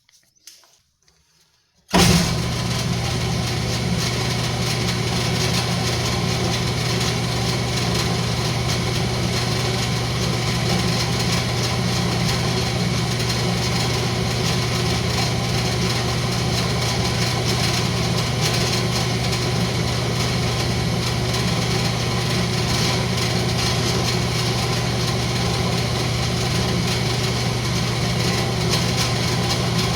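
Wood lathe switched on about two seconds in, its motor then running steadily with a constant hum.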